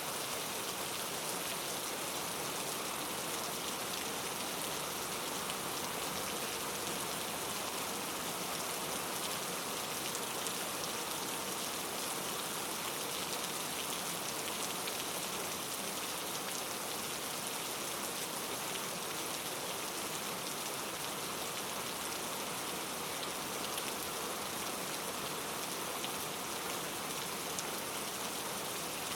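Steady rain falling, an even hiss with the fine patter of drops.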